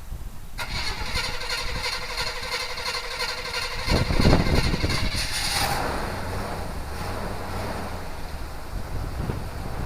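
RV engine running, getting louder for a couple of seconds about four seconds in as it is given throttle, then settling back to a steady run.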